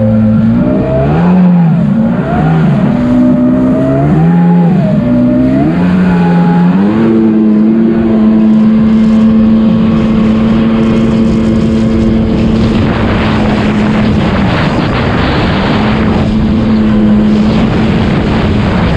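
Two-stroke jet ski engine revving up and down for the first several seconds, then holding steady high revs with a short dip about three-quarters of the way through. A rushing noise of wind and water builds in the second half.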